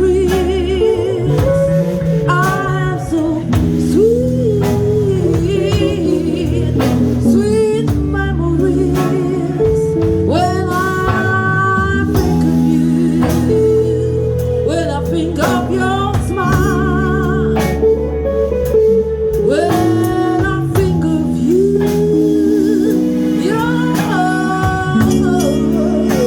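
Live band of guitars, keyboard, bass guitar and drums playing a slow, bluesy number. Over it runs a lead melody with wide vibrato and notes bent up into pitch.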